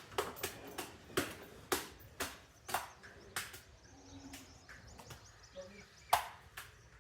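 Irregular sharp clicks and knocks, roughly one or two a second, the loudest one near the end.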